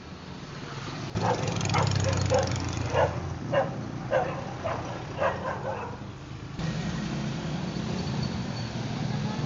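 A dog barking in a quick series, about two barks a second, over a low steady vehicle hum. The barking stops about six seconds in and the hum continues.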